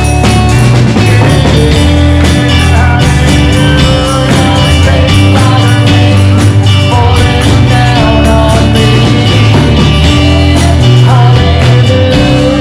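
Live church worship band playing a loud, steady rock-style passage with a full drum kit.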